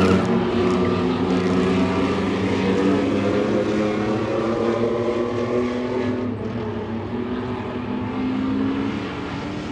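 Several racing trucks' engines running hard together in a race, their pitches overlapping and slowly shifting as the field goes around the track, fading slightly near the end.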